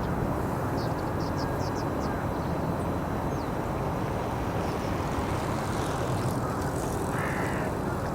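Steady low outdoor rumble of distant engine noise, with small birds giving short, high, down-slurred calls, several in a quick run about a second in and a few more scattered later.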